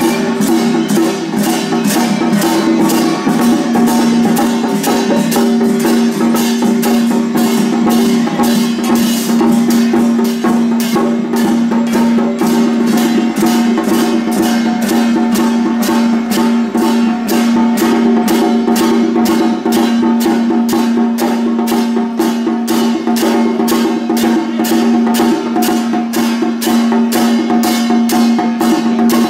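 Taiwanese temple-procession Madou drum ensemble playing. A drum is struck in a steady, fast rhythm over steady ringing tones.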